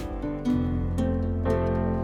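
Background music of gently plucked and strummed acoustic guitar with held notes.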